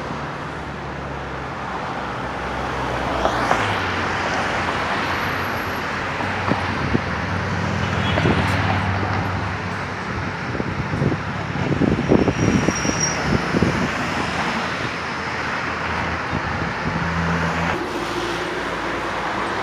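Road traffic: cars passing along a busy road, over a steady low engine hum. A cluster of short knocks comes about halfway through.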